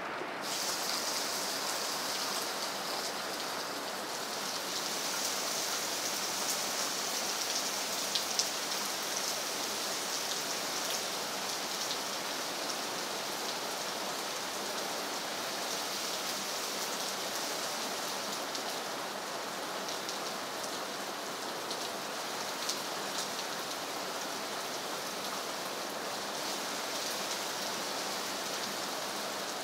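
Steady rain falling on leafy trees and wet ground: an even, dense hiss sprinkled with tiny drop ticks, with a couple of sharper drips about eight seconds in.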